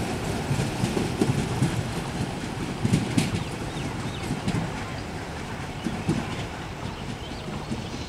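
A Bangladesh Railway local passenger train rolling away on the track, its coach wheels clacking over the rail joints with scattered sharp clicks over a steady rumble. The sound fades steadily as the train recedes.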